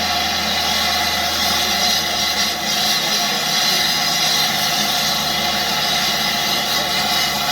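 Steam locomotive letting off steam, a loud, steady hiss that cuts off suddenly at the end.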